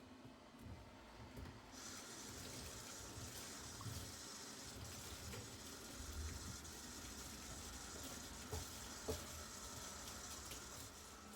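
Water running from a tap into a sink, turned on about two seconds in and running steadily until it stops near the end, with a couple of small knocks partway through.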